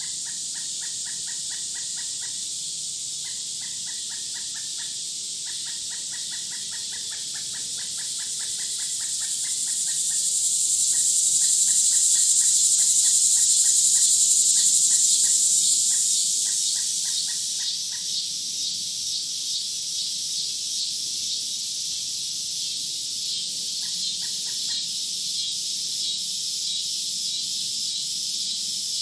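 Outdoor nature ambience of insects and birds: a high, steady insect drone that swells loudest in the middle, over trains of rapid chirping pulses that give way to a quicker, higher pulsing in the second half.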